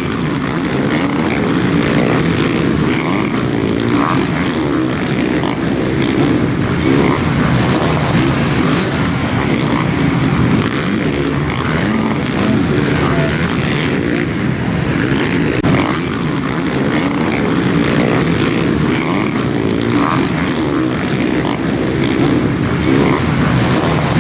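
Motocross motorcycles racing on the track, their engines running together as a steady loud din.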